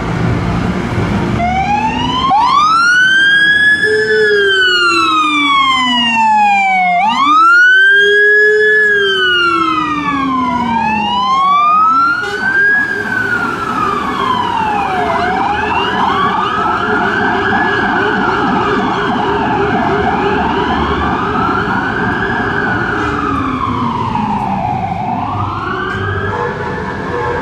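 Fire engine sirens wailing, the pitch sweeping up and down every two to three seconds; from about twelve seconds in a second siren overlaps the first, over the running of a truck engine.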